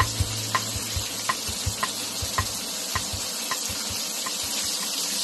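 Asparagus frying in oil in a pan: a steady sizzle with sharp little pops about twice a second.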